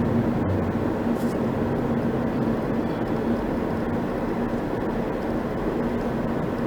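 Steady road and engine noise of a moving vehicle on the road, with a constant low drone.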